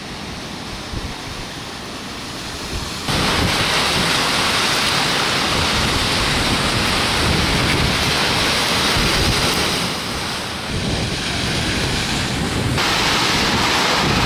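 Heavy rain and water noise with wind buffeting the microphone. It jumps suddenly louder about three seconds in and changes character twice more near the end.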